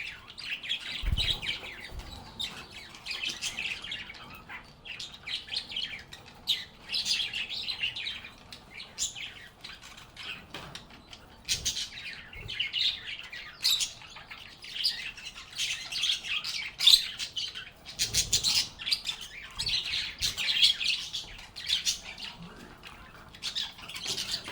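Lovebirds chirping and chattering in a dense, unbroken stream of rapid high calls, with a brief low thump about a second in.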